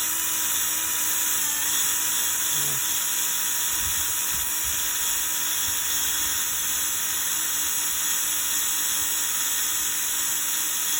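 Electric drill running steadily with a sponge polishing pad, buffing polishing compound on a car's painted hood. It is a steady whine whose pitch dips briefly about one and a half seconds in.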